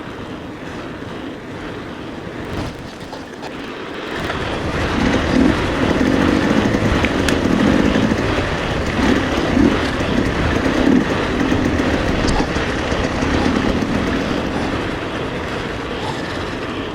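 Riding noise from a mountain e-bike on a dirt trail: wind buffeting the helmet camera's microphone, with tyres and frame rumbling and rattling over the ground. It swells louder about a quarter of the way in and eases off toward the end.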